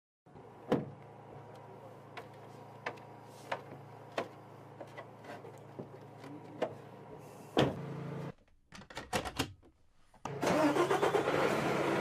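A vehicle engine running with a low steady hum, with sharp clicks every second or so. About ten seconds in, a louder, rushing run of engine noise takes over.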